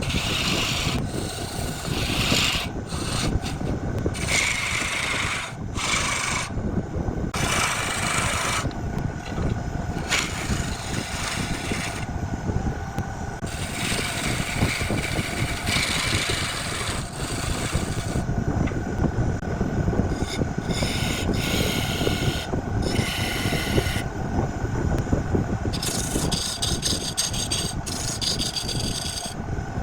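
Wood being worked against a spinning wood lathe: a continuous rasping, rubbing sound over a faint steady motor hum, its brighter hiss cutting in and out every second or two as the tool or abrasive touches the wood and lifts off.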